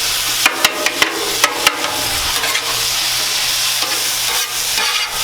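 Cod fillets frying on a Blackstone flat-top griddle: a steady sizzle, with several sharp clicks in the first two seconds.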